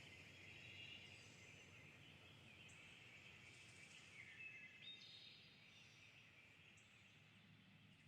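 Faint river stream with high trilling bird calls over it, the whole slowly fading.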